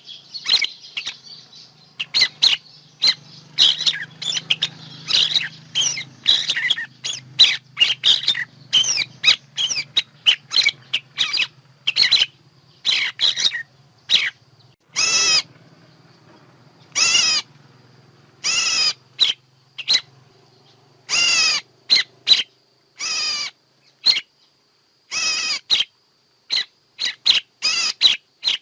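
Recorded bird calls used as a trapping lure: a rapid run of short high chirps, then, from about halfway, longer harsh calls repeated roughly every two seconds, with quick chirps again near the end.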